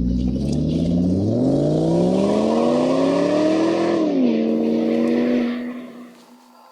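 Car engine revving: its pitch climbs steadily for about three seconds, drops back and holds, then fades out near the end.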